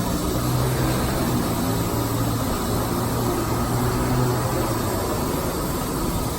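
Semi truck's diesel engine running steadily at low revs, a continuous low hum.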